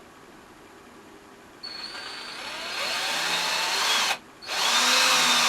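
Small electric power tool motor starting about a second and a half in with a whine that rises in pitch as it spins up, stopping briefly just after four seconds, then starting again and running steadily.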